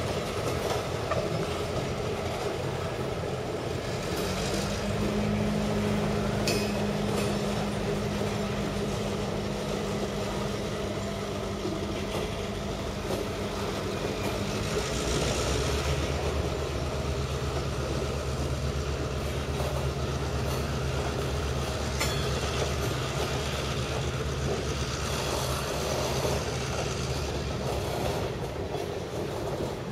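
Canadian National train rolling steadily past on the rails, with wheel noise and a low hum that steps down in pitch about halfway through.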